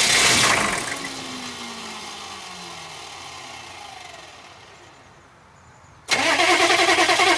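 Chevrolet 6.5 L turbo diesel being cranked by its starter in an attempt to start it after sitting for years. The cranking cuts off early and the engine spins down with a falling whine. The cranking starts again abruptly near the end.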